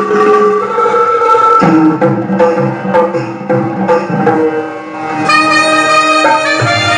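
Saxophone playing a melody in held notes over tabla-style percussion. About five seconds in, a brighter accompaniment with many overtones comes in under the melody.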